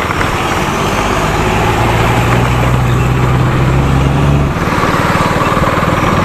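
Motorcycle engine running while riding, with wind and road noise over it. The low engine note changes abruptly about four and a half seconds in.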